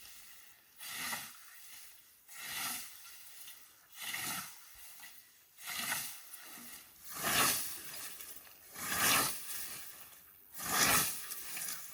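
Scythe mowing grass: rhythmic swishing strokes, about one every second and a half, growing louder toward the end.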